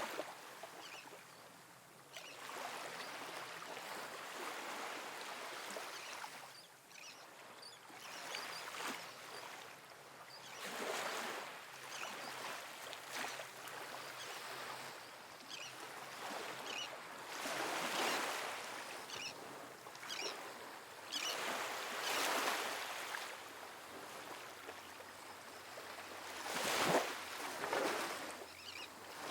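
Small ocean waves breaking and washing up a sandy beach, surging and ebbing every few seconds, with the fizz of foam running back over the sand. One wave near the end breaks louder than the rest.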